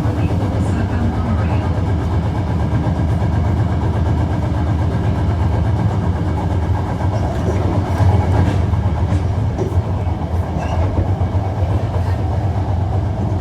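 Hankyu 1300 series electric train running, heard from inside the car: a steady rumble of wheels on rail with scattered short clicks.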